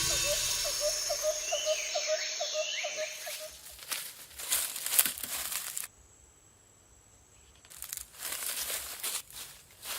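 Irregular crunching and crackling, with a gap of near silence in the middle.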